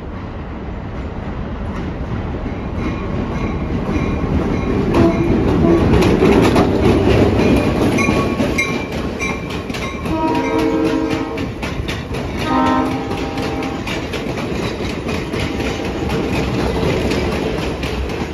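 Diesel locomotive passing close with its engine running, followed by two horn blasts, a longer one about ten seconds in and a short one about two seconds later. Then the passenger coaches roll by, wheels clicking steadily over the rail joints.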